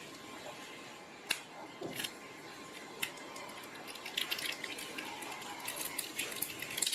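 A few sharp clicks of small repair tools on a phone's frame, then from about four seconds in a run of fine crackling and scraping as the phone's parts are worked loose.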